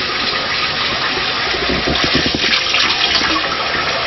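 Cold water running steadily from a kitchen tap and splashing in the sink as dough is rinsed off noodle-making equipment, with a few low knocks about halfway through.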